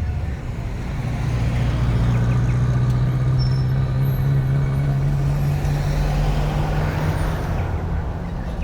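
A car engine running close by, its low hum rising slowly in pitch over several seconds and easing off near the end.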